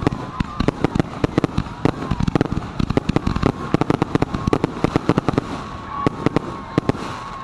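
Consumer fireworks going off in quick succession: a dense stream of sharp bangs and cracks, several a second, with a thin steady whistle running underneath.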